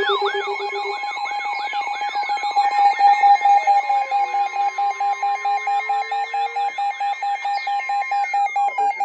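Several electronic weather-alert tones sounding together for a severe thunderstorm warning. Short falling chirps repeat about three times a second over a steady tone just above 1 kHz and a pulsing beep. A lower tone drops out about a second in, and slow gliding tones cross the mix.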